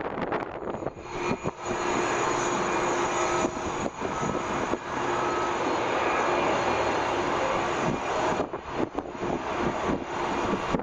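Jet engines of an Airbus A321 airliner passing on its landing, a steady noise with several high whining tones, loudest from about two to eight seconds in. Wind buffets the microphone at the start and near the end.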